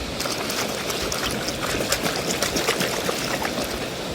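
Running water pouring and splashing over a muddy plastic toy as it is washed, with many small splashes and drips.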